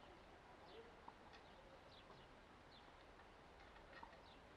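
Faint bird chirps over near silence: a handful of short, high chirps, each falling in pitch, scattered through a few seconds.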